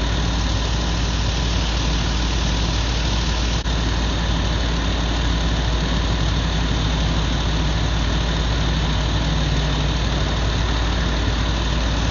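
A vehicle engine idling steadily, a low, even rumble and hum.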